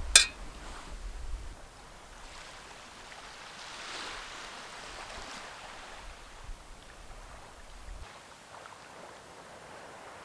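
Sea waves washing gently on the shore, one soft wash swelling up and fading away in the middle, with a sharp click right at the start and low wind rumble on and off.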